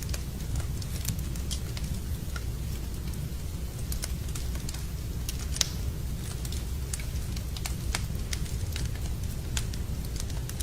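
Wood fire in a fireplace crackling: irregular sharp pops over a steady low rumble, the loudest pop about halfway through.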